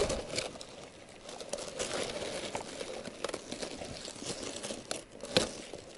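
Crinkling, crunching handling sounds of ice and snow being cleared from a frozen-over ice-fishing hole, with scattered small clicks and one sharper knock about five seconds in.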